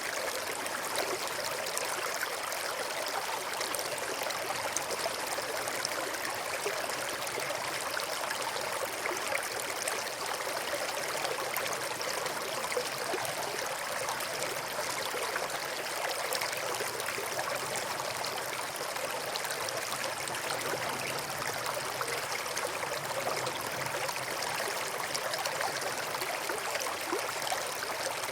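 A river flowing steadily over and between rocks, an even rushing of water with small splashes and gurgles.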